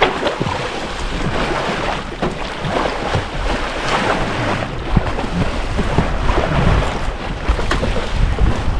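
Wind buffeting the microphone over the rush and splash of water along the hull of a sailing boat under way.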